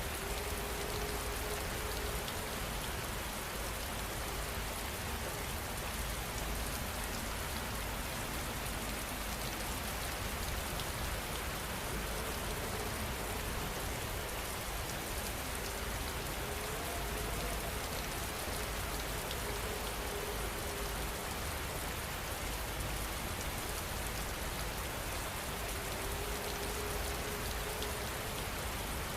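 Steady rain falling: an even, unbroken hiss of many drops. A faint low tone drifts in and out a few times beneath it.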